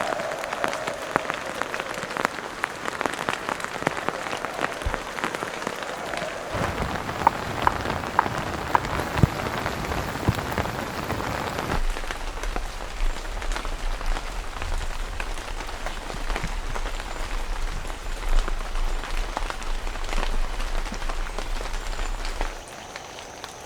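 Heavy rain falling, a dense patter of individual drops striking a surface, changing character abruptly a couple of times. A steady low rumble runs underneath from about halfway in until near the end.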